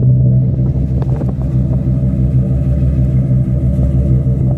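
Ford 460 fuel-injected V8 idling steadily through an aftermarket exhaust pipe and Flowmaster muffler, with a deep, even rumble.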